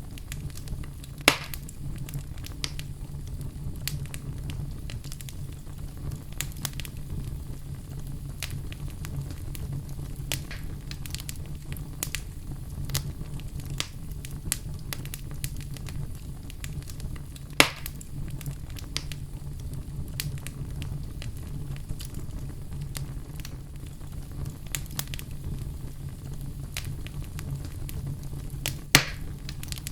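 Wood fire crackling in a fireplace: a steady low rumble with frequent small crackles, and three sharper, louder pops, about a second in, midway and near the end.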